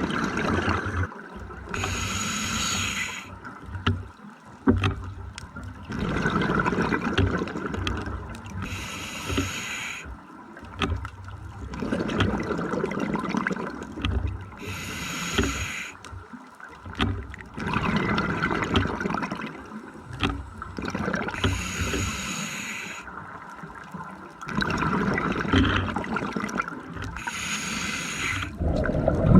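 A scuba diver breathing through a regulator underwater: a hiss on each inhale and a burst of bubbles on each exhale, repeating at about one breath every six seconds, five breaths in all.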